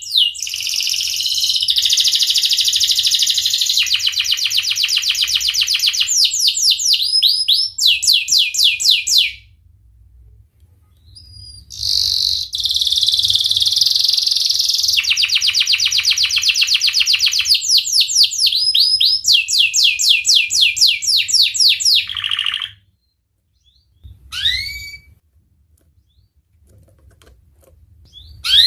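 Domestic canary singing long, fast song phrases: rolling trills and runs of repeated down-slurred whistled notes. The song breaks off for about two seconds a third of the way through, then resumes with a second long phrase. After that come two short single chirps.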